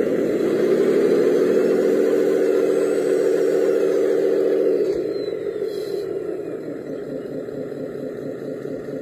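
Motor of a radio-controlled construction model whirring steadily, easing off about five seconds in.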